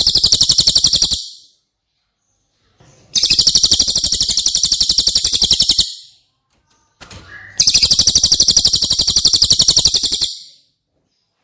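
Cililin songbird singing a loud, rapid, high-pitched trill in bursts of about three seconds with short pauses between them. One burst ends about a second in, and two more follow.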